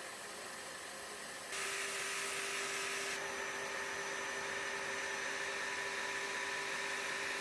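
Homemade 2x72 belt grinder running with a steady motor whine and belt hiss. About a second and a half in, it abruptly gets louder, with a stronger hiss and an added steady tone.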